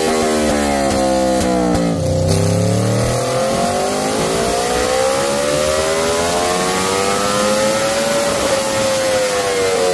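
Aprilia RSV4 1100 Factory's V4 engine through an SC Project GP22 slip-on exhaust on a chassis dyno. Revs fall for about two seconds and dip sharply, then climb steadily for some six seconds in a pull before easing off near the end.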